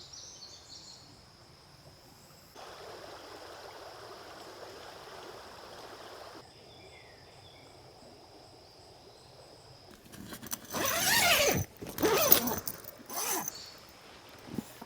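Quiet outdoor ambience with a faint steady high tone, then two loud rasping rustles about ten and twelve seconds in, followed by a few smaller ones.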